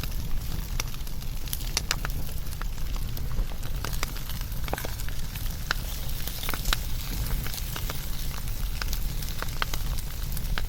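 Wood fire burning with irregular sharp crackles and pops over a steady low rumble and hiss.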